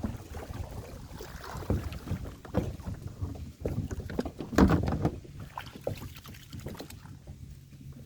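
A kayak on choppy water in strong wind: wind rumbling on the microphone, with irregular knocks and splashes against the hull. A heavier thump comes about halfway through.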